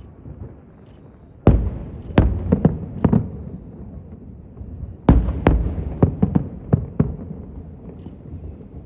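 Aerial fireworks bursting: a run of about four loud booms starting a second and a half in, then a second run of about six booms from about five seconds in, each with a short echoing tail.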